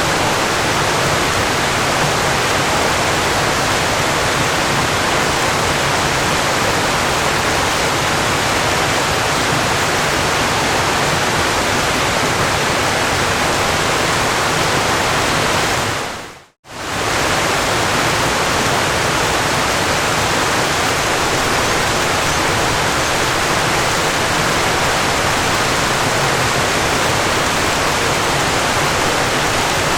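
Steady rushing of a waterfall, an even wash of falling water. A little past halfway it briefly fades out to silence and straight back in.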